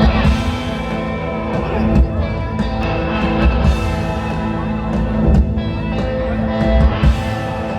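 Rock music: guitars playing held chords over drum hits, with no singing.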